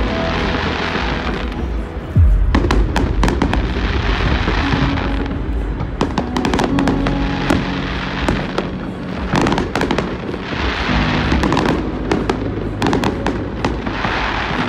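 Aerial fireworks shells bursting overhead: repeated sharp bangs and crackling, with a loud bang about two seconds in.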